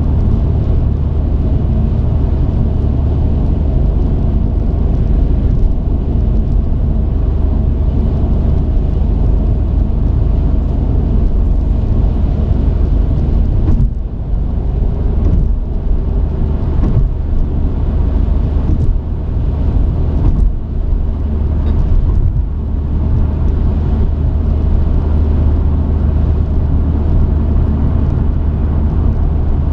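Delivery truck on the move: steady low engine and road rumble, dipping briefly about halfway, with a few short knocks or rattles over the next several seconds.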